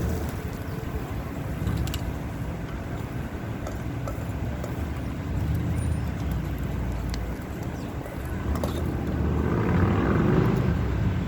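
Road traffic rumbling steadily, swelling louder near the end as a vehicle passes close.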